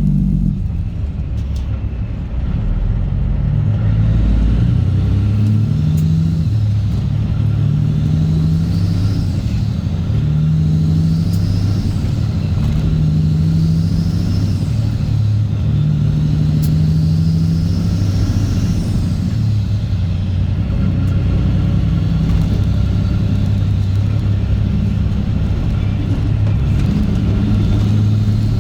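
Straight-piped Cat C15 ACERT inline-six diesel in a Kenworth W900 pulling hard. Its note climbs and drops back every couple of seconds as the truck works up through the gears, then runs steadier near the end.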